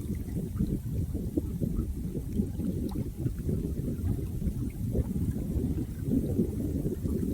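Flowing water: a steady, low churning rush with small gurgles and plinks of droplets.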